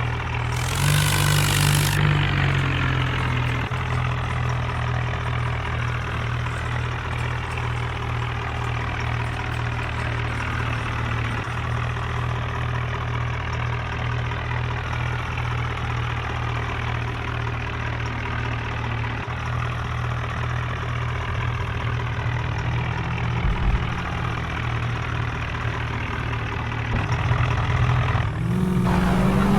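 Tractor diesel engine running at a steady idle, revved briefly about a second in and again near the end.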